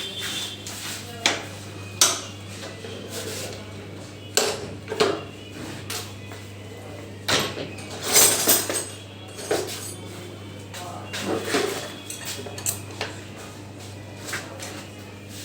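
Irregular metallic clinks and knocks of tools and metal parts being handled during repair work on an offset printing press, loudest in a cluster about eight seconds in, over a steady low hum.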